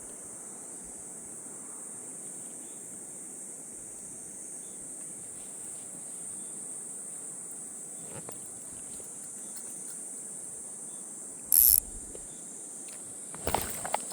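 Insects shrilling steadily in one high, even band over a faint low rush. About three-quarters of the way through a short, loud sharp noise cuts in, and near the end a quick cluster of knocks.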